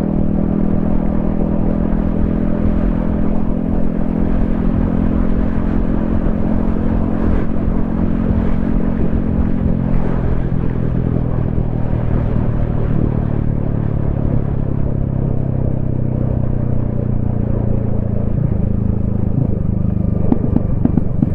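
Yamaha XSR155's single-cylinder engine and exhaust running steadily under way, with low wind rumble on the helmet microphone. The engine note eases slightly lower through the middle and changes pitch about eighteen seconds in.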